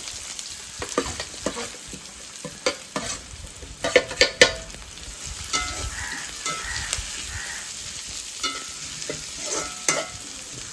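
Ingredients frying in hot oil in a pan, with a steady sizzle, while a spoon stirs and knocks against the pan, sharp clicks coming mostly in the first half.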